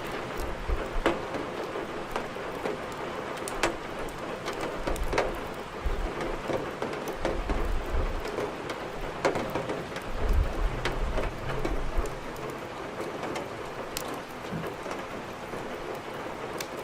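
Steady rain with the sharp, scattered crackles of burning firewood over it, and a low rumble now and then.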